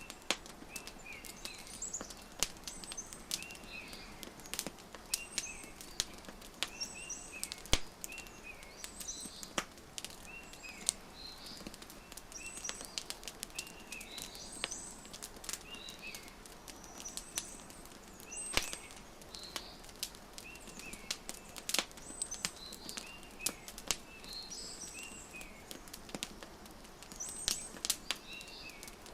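Wood fire crackling with frequent irregular sharp pops, under small songbirds chirping in short repeated phrases.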